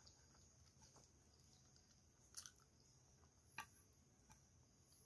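Faint close-up eating sounds: food being chewed with the lips closed, with two soft clicks about two and a half and three and a half seconds in.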